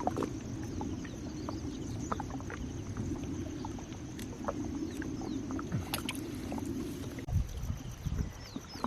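Steady low rumble of a small boat on the river, with scattered clicks and knocks. The rumble drops away about seven seconds in, followed by a few heavy low thumps.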